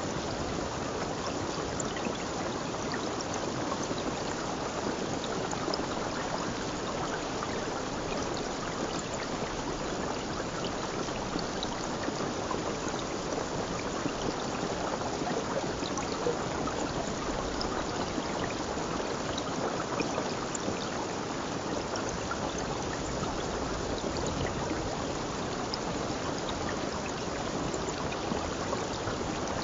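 A stream of water flowing, a steady even rush that does not change.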